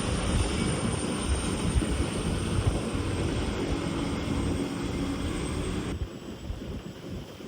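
Wind buffeting the microphone over a low, steady rumble of a ferry under way. About six seconds in, the sound cuts abruptly to a quieter, softer wind-and-water noise.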